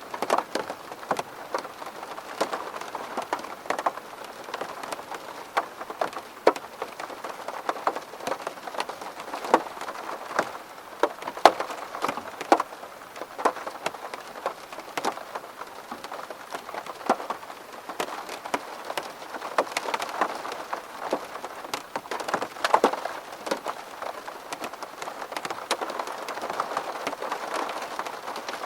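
Rain pattering on a window pane: a steady wash of rain with many irregular, sharp drop taps on the glass.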